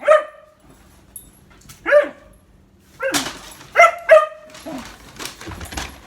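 A pet dog barking in short, high yaps, about six of them spaced irregularly.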